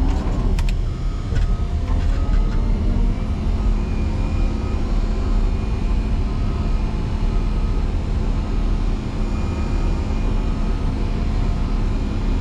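Motor grader's diesel engine running steadily under load, with a few clicks about half a second in. From about three seconds on there is a repeated short beep roughly once a second, typical of a reverse alarm as the grader backs up.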